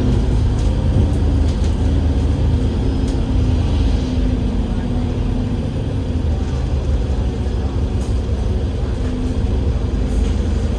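Cummins L9E diesel engine of an Enviro500 MMC double-decker bus running steadily under way, a continuous low drone that eases off a little midway.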